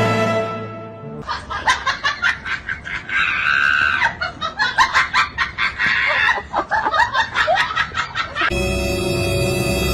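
Background music fades out about a second in. Then comes a run of rapid, short, high-pitched calls, several a second, for about seven seconds. Music comes back in near the end.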